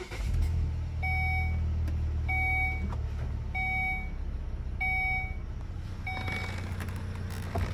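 2016 Volvo XC70's engine starting on the push button and settling into a steady idle, heard from inside the cabin. Over it the dashboard warning chime beeps five times, about every 1.3 seconds.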